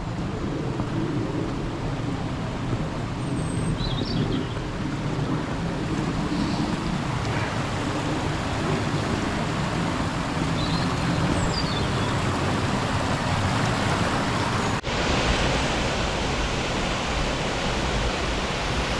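Steady rushing noise with a few faint bird chirps in the first part. After a sudden cut near the end, the fuller, brighter rush of a powerful waterfall takes over.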